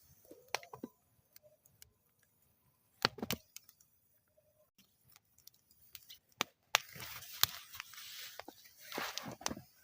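Wood fire in a metal fire bowl crackling, with scattered sharp pops and quiet gaps between them; a short cluster of pops about three seconds in and a denser spell of crackling and hissing from about seven seconds in.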